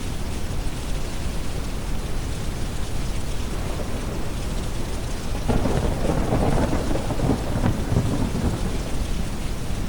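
Deep brown noise with steady rain, and a roll of thunder that swells about halfway through and rumbles on for about three seconds before easing back.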